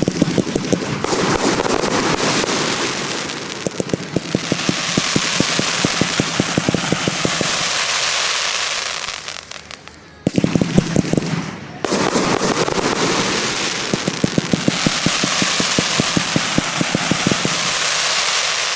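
Fireworks display: rapid volleys of bangs, each followed by a long crackling, hissing wash that fades. The pattern comes twice, the second volley starting about halfway through.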